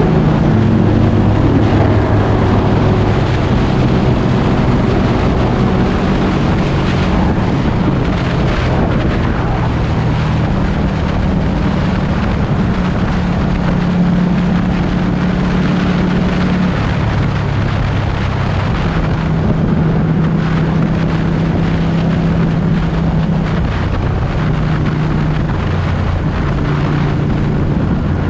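Ducati 1199 S Panigale's Superquadro L-twin engine running under way, its note holding steady and then stepping up and down in pitch as the bike changes speed, with rushing air on the microphone.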